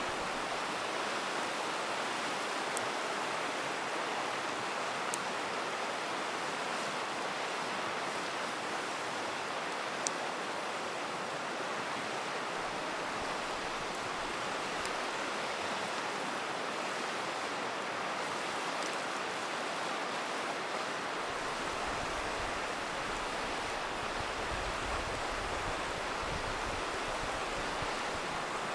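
River water rushing steadily, with a few sharp pops from a crackling campfire, the clearest about ten seconds in.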